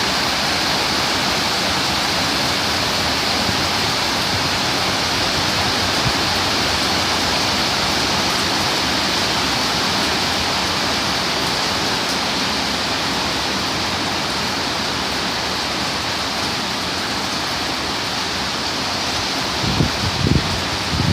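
Torrential tropical-storm rain pouring down in a steady, dense hiss. Near the end a few low thumps break through.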